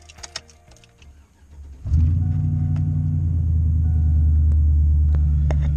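Light clicks and rattles, then a car engine starts suddenly about two seconds in and runs at a steady, loud idle.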